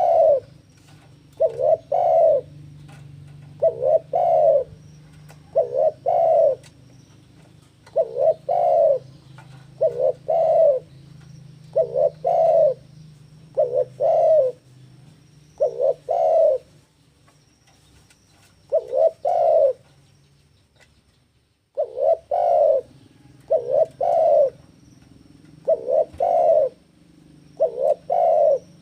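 Spotted dove (tekukur) cooing over and over, each phrase a quick run of two or three coos, about every two seconds, with one short pause about two-thirds of the way through. This is a male's breeding-season challenge call. A faint steady low hum runs underneath.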